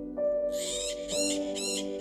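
Three short, harsh, high-pitched macaw squawks in quick succession, over background music of held chords.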